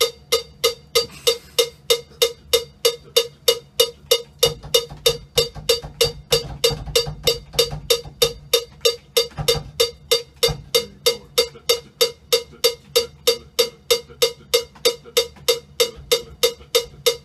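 Metronome click track ticking steadily at about three clicks a second. Between about four and eleven seconds in there is a low rumble, with a couple of low thumps from the drums.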